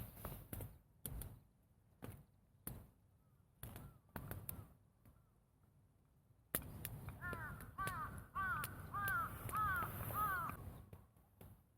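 A scatter of sharp knocks and clicks, then, from about seven seconds in, a bird calling about eight times in quick succession with short arching calls.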